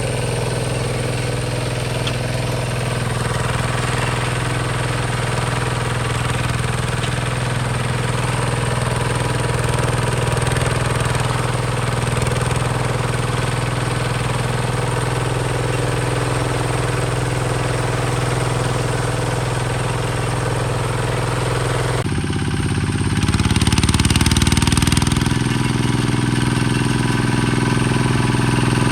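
Hinota HG Gold 155 DI tractor's diesel engine running steadily. About 22 seconds in, the sound changes abruptly, a louder rushing noise rises for a couple of seconds, and then the steady running resumes.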